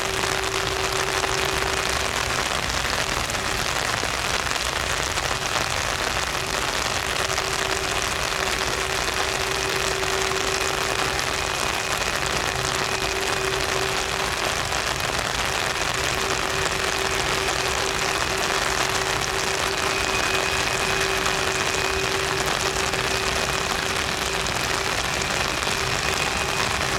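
Boeing 747-400F's four jet engines running steadily at taxi power: a constant rushing noise with a steady hum and a fainter high whine.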